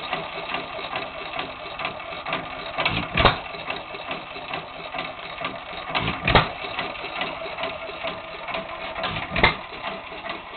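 Early-1900s Hercules single-cylinder hit-and-miss engine running: it fires with a loud bang about every three seconds, three times, and coasts between firings with fast, even mechanical clicking from its valve gear.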